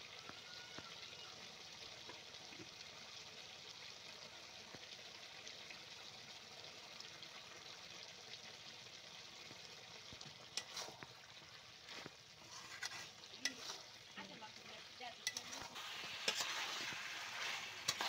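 Duck meat frying in a wide metal pot: a steady sizzle, with scattered scrapes and taps of a metal spatula from about ten seconds in. In the last couple of seconds the meat is stirred and scraped around the pot, and the sound grows louder.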